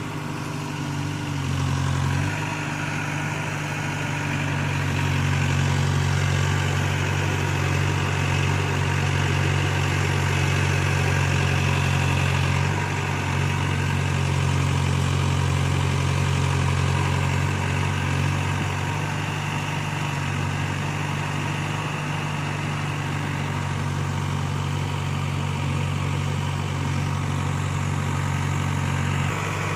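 Backhoe loader's diesel engine running steadily, growing louder about two seconds in.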